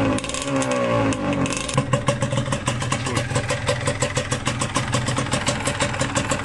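Yamaha DTR125 two-stroke single-cylinder engine given short throttle blips, with the revs falling away after each. After about two seconds it settles to an idle with a regular clatter, about seven beats a second.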